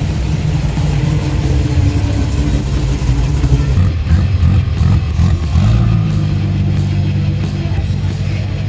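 Car engine running at idle, its pitch wavering about four seconds in before settling steady again, with music playing in the background.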